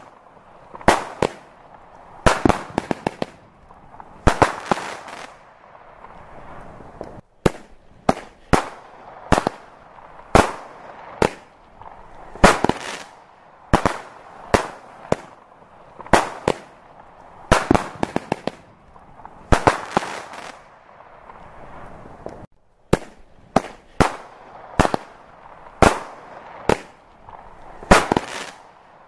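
Aerial fireworks display: irregular sharp bangs of shells exploding, about one or two a second, sometimes in quick runs of several bangs close together.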